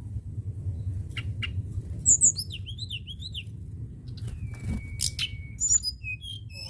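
Tledekan gunung songbird singing a varied, fast song. It gives short chirps, then quick rising-and-falling warbled notes, then one long held whistle about halfway through, then more mixed notes, all over a steady low hum.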